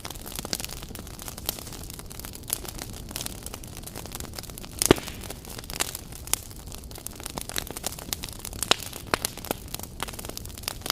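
Wood fire burning, with irregular sharp crackles and pops over a low steady hiss; one louder pop a little before the middle.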